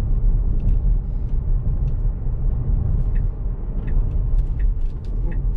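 Road and tyre noise heard inside the cabin of a moving Tesla electric car: a steady low rumble with no engine note, and a few faint light ticks.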